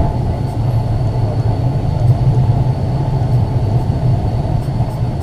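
Liverpool Corporation tram 869 rolling along the track, heard on board: a steady, even rumble of wheels on rail and running gear.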